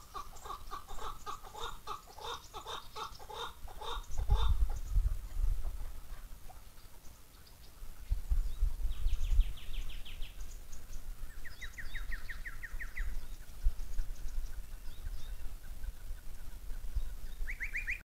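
Birds calling: a rapid run of repeated, evenly spaced notes for about the first four seconds, then several short high trills later on. Two bursts of low rumble break in, about four seconds in and again around eight to ten seconds.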